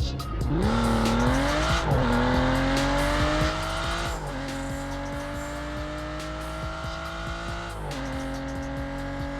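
Car engine accelerating through the gears: its pitch climbs steadily and falls sharply at each upshift, three times, then keeps rising slowly.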